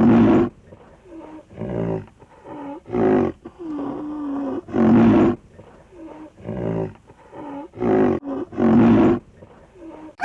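An animal giving a series of loud pitched calls, each about half a second long and irregularly spaced, with softer calls in between and one longer, drawn-out call about four seconds in.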